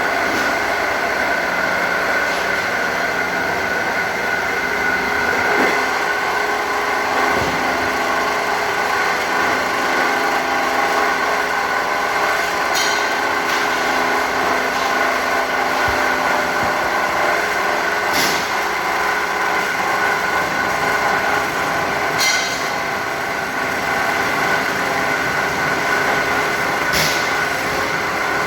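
Automatic muffler-pipe cutting machine running with a steady mechanical hum and whine, with four sharp clicks a few seconds apart in the second half.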